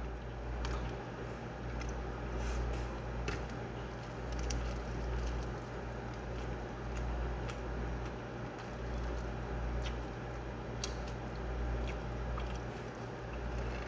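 Close-miked chewing and wet mouth sounds of someone eating rice, with scattered small clicks as fingers pick through the rice on the plate, over a steady low hum.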